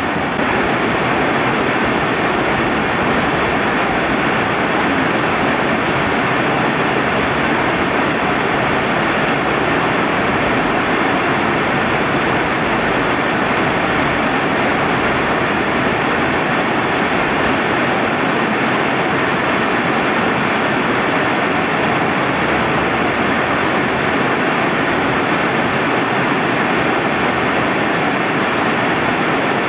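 Steady rain with a flowing river: a loud, even hiss that holds without change or break.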